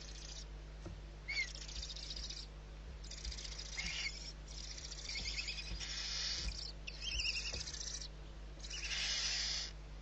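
Barn owl giving harsh hissing bursts, each about a second long, repeating every two to three seconds, with small birds chirping in between.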